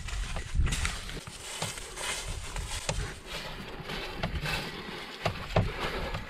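Irregular footsteps and light knocks on a trail, with rustling.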